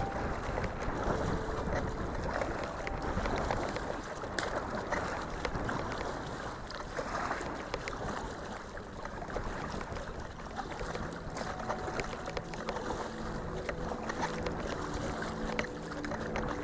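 Steady rush of wind and water around a kayak on a river, with scattered small splashes or knocks. Faint background music comes in during the second half.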